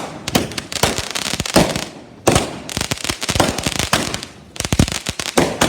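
Fireworks going off in quick succession: a dense run of sharp bangs and crackles, with louder clusters of bursts about two seconds in and again near the end.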